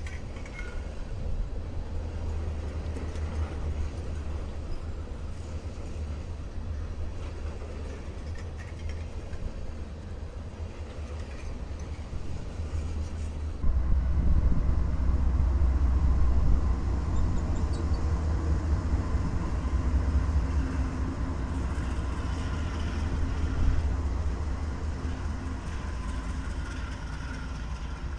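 A freight train of flatcars rolls past with a steady low rumble. About halfway through the sound changes abruptly and gets louder: Norfolk Southern diesel locomotives run past with a steady engine hum over the rumble of the train.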